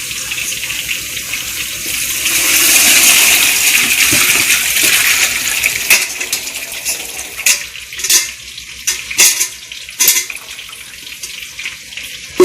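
Chicken stock being poured into a pot of sautéed onions and spices: a steady rush of liquid that swells about two seconds in and eases off about six seconds in. After it come several sharp metallic clinks of vessels or utensils against the pot.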